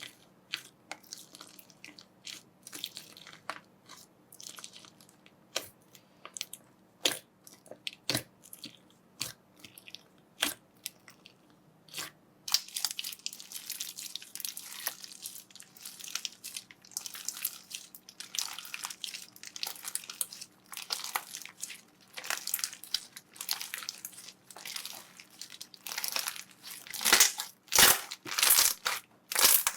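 Slime being pressed and squeezed by hand, giving sharp crackling pops. Single scattered pops at first, then denser crackling from about twelve seconds in, loudest near the end.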